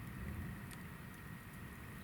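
Hinoki-wood campfire burning with a low, steady flame rumble and one faint crackle about a third of the way in.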